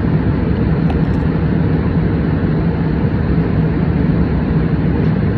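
Airliner cabin noise: a steady low drone with a constant hum, and a few faint clicks about a second in.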